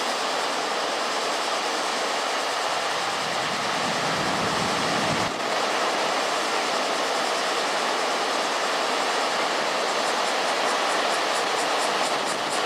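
Steady rushing roar of typhoon-driven surf breaking along the shore, mixed with wind. A low buffeting swells about four seconds in and cuts off abruptly a second later.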